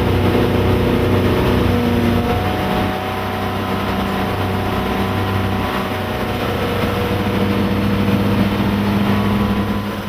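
Twin Volvo Penta 5.7 GSi fuel-injected V8 sterndrive engines running under way, a steady engine note over water and wind hiss, the pitch shifting slightly a few times.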